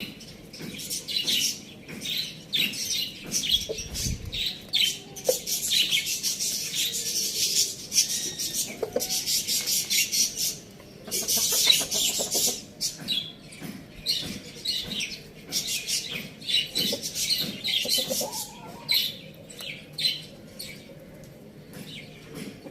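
Birds chirping: many short, high calls in quick, busy succession.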